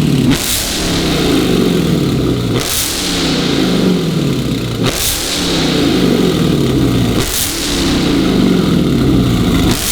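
Supercharged V8 of a Dodge Hellcat Redeye Jailbreak with a loud aftermarket exhaust, revved in four sharp throttle blips about two and a half seconds apart, each snapping up and sliding back down in pitch.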